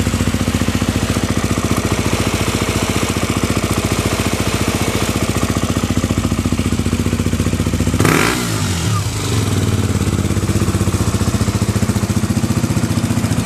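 KTM 200 Duke's single-cylinder four-stroke engine idling steadily, with a sudden brief change in its note about eight seconds in before it settles back to a steady idle. The idle is even, with no abnormal noise.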